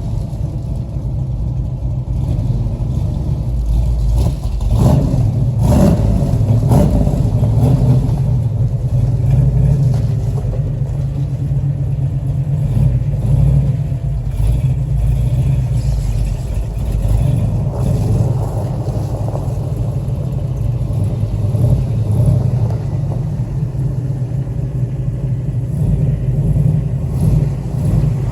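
1969 Camaro's 502 cubic-inch Chevrolet big-block V8 running with a steady low rumble, its revs briefly rising and falling about five seconds in.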